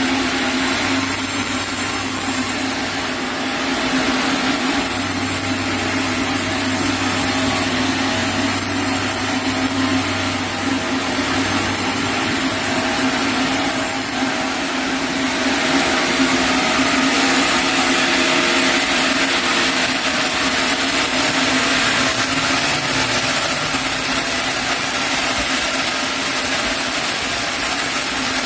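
Sawmill saw running steadily, cutting through a chinaberry (sendan) log, with a constant low hum under a wide hiss that brightens about halfway through.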